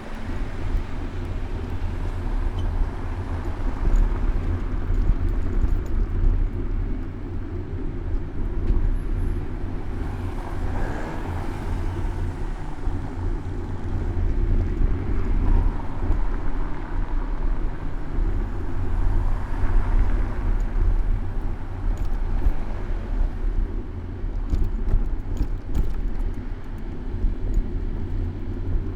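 City road traffic heard from a moving bicycle: cars passing, over a steady low wind rumble on the bike-mounted microphone. A run of small clicks near the end.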